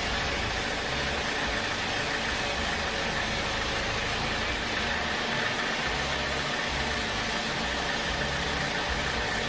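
Sawmill machinery running steadily: a constant mechanical din with a steady high whine through it.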